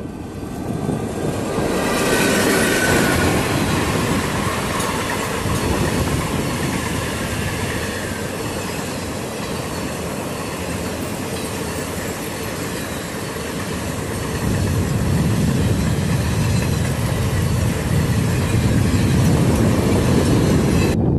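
Indian Railways passenger express passing at speed close to the track, its coaches rumbling and rattling over the rails in one continuous roar. The sound swells about two seconds in, and the low rumble grows heavier in the second half.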